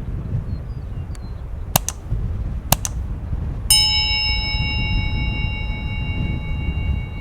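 Two sharp clicks, then a struck metal chime or bell rings out with several steady tones, sounding on unbroken to the end, over a low wind rumble.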